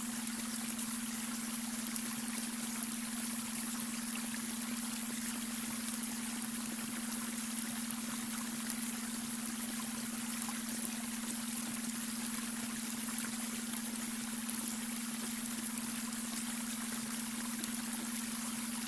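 Babbling brook running steadily, water splashing and trickling over stones, with a steady low hum underneath from a beta brainwave tone mixed in.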